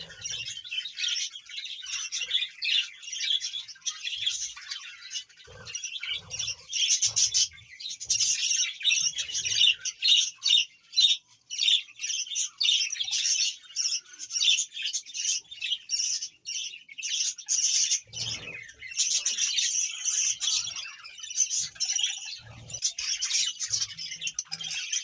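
Small pet birds chirping and twittering rapidly and continuously, many short high calls overlapping, with a few soft low thumps now and then.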